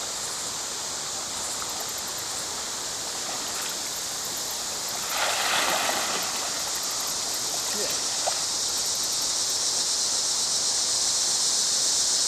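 Creek water running over rocks, a steady rush that grows a little louder toward the end. About five seconds in there is a short louder burst of splashing.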